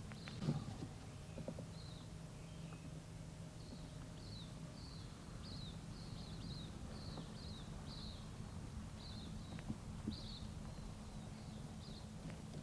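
Small birds chirping in short repeated calls, about two a second, over a steady low hum, with a single knock about half a second in.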